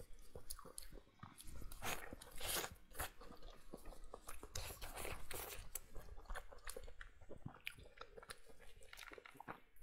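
Close-miked eating of braised pork: biting and chewing with many wet mouth clicks and smacks. There are longer, noisier stretches about two seconds in and again about five seconds in.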